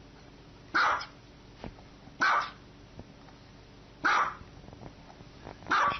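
A dog barking: four single barks, about a second and a half apart.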